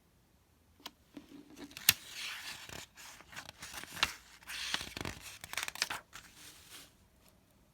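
Paper rustling and handling noise with a few sharp clicks from a picture book's page being turned, lasting several seconds.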